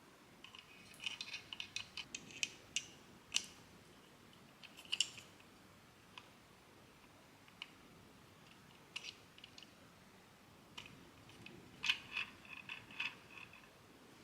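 Hard 3D-printed plastic parts clicking and clacking as they are handled and fitted together, in uneven runs of quick clicks with single clicks between.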